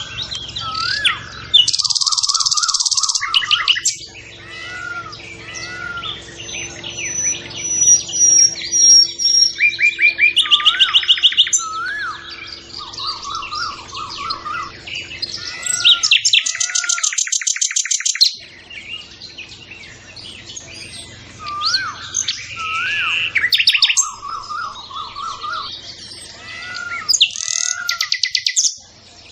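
Small birds chirping and singing: repeated short whistled notes that rise and fall, broken several times by fast, high trills lasting a second or two.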